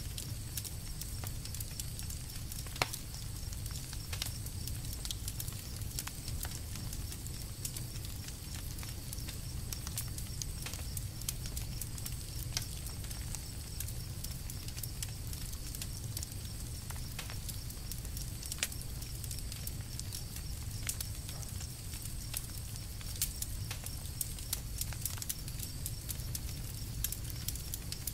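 Campfire burning, a steady stream of small crackles and pops over a low rumble, with a louder snap about three seconds in.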